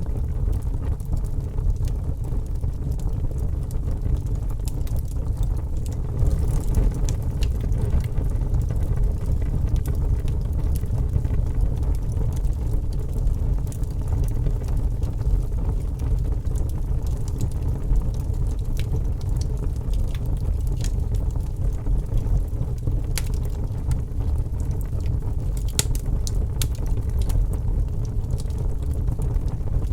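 Fire burning: a steady low rumble of flames with scattered sharp crackles and pops, more of them about seven seconds in and again near the end.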